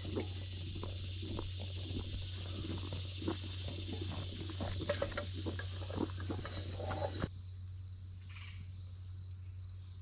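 Crickets trilling steadily, with irregular clicks and knocks over the first seven seconds or so that cut off abruptly.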